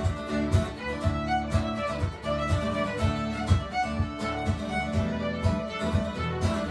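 Fiddle playing a lively traditional-style tune with a steady beat of strummed guitar accompaniment.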